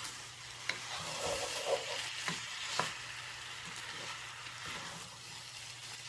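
Rice and lentils for khichuri sizzling steadily in a pot with a splash of added water while being stirred, with a few sharp clicks of the spoon against the pot.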